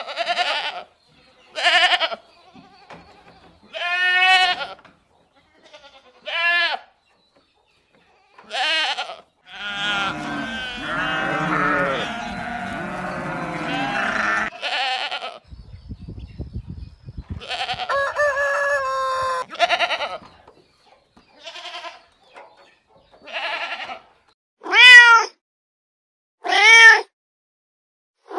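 A string of short animal calls, bleats and meows, with gaps between them. Two stretches in the middle hold denser, overlapping calls, and the two loudest calls come near the end.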